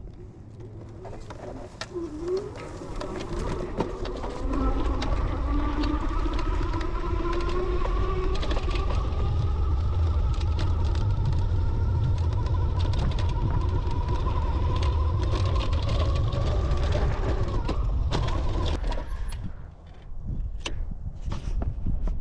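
Wind rumbling on the GoPro's microphone during the ride, with a motor's whine rising slowly in pitch over it; both drop away suddenly about nineteen seconds in.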